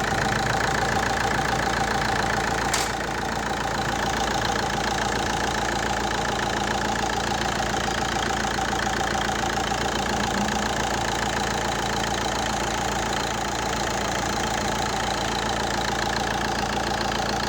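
Fiat Stilo JTD four-cylinder common-rail diesel engine idling steadily, with a single sharp click about three seconds in.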